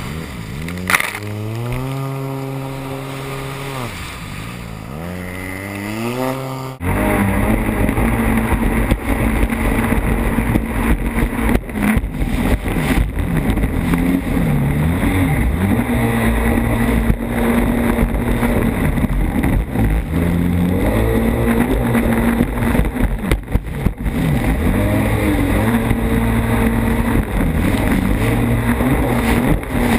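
Personal watercraft engine revving up and down several times, its pitch rising and falling. About seven seconds in it changes abruptly to a loud steady run at speed, with heavy water and wind noise over the engine.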